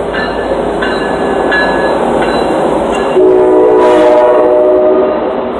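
Metra F59PHI diesel locomotives passing close at speed, engine and wheel noise steady, with a short ding repeating about every three-quarters of a second. About three seconds in, a train horn sounds a chord of several notes for about two seconds, the loudest part.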